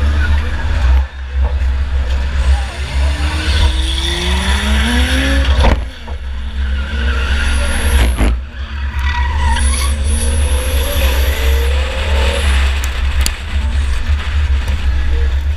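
Onboard sound of a 2004 Chevy Impala enduro race car's engine revving up and easing off under a heavy rumble. Two sharp knocks come partway through, about six and eight seconds in.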